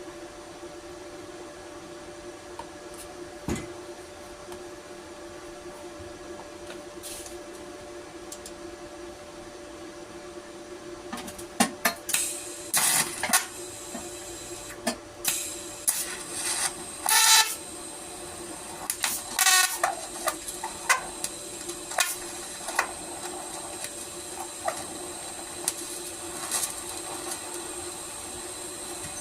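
TIG torch arc heating a rusted, seized head nut: a steady electrical hum, with irregular crackling and spitting from about eleven seconds in until about twenty-four seconds, the arc unsettled by rust and contaminants in the metal.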